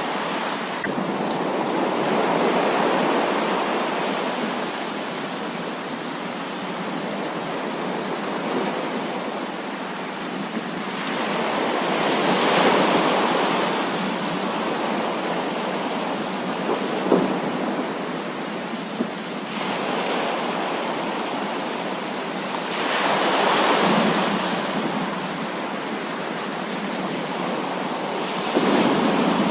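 Heavy rain pouring steadily, with rumbles of thunder that swell and fade several times.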